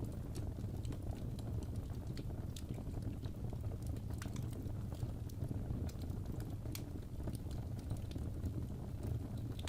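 Fireplace fire crackling, with scattered sharp pops at irregular moments over a steady low rumble.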